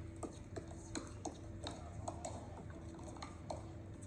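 Pickleball paddles striking the hard plastic ball: sharp, hollow pops at an irregular pace, several a second, as on busy courts, over a faint steady hum.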